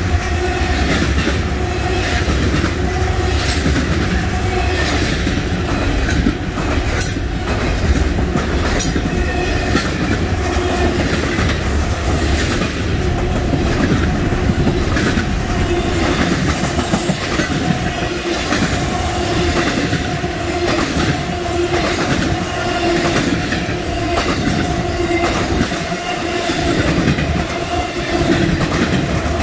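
Double-stack intermodal freight train rolling past at close range: a loud, steady rumble of well cars with wheels clicking over rail joints and a thin steady wheel squeal over it.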